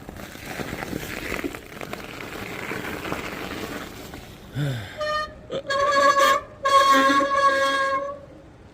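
Car horn sounding three times: a short toot, then two longer blasts, the last the longest. Before it, a steady rushing noise.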